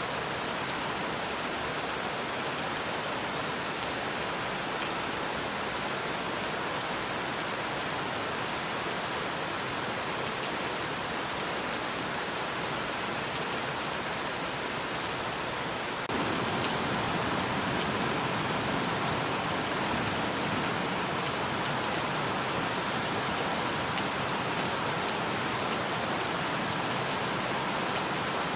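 Steady rain falling, a dense even hiss of drops. About halfway through it suddenly steps up to a louder, fuller rain.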